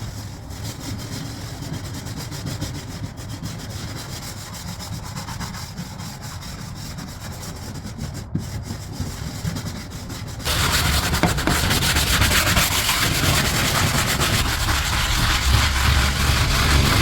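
Scrub brush rubbing back and forth over wood, scrubbing off mold with a bleach solution. About ten seconds in the scrubbing becomes much louder and harsher, then stops abruptly at the end.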